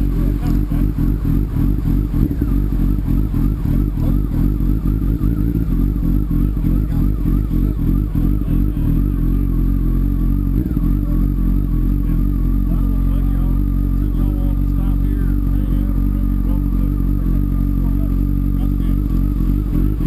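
Motorcycle engine idling steadily, with an even, low pulsing throb.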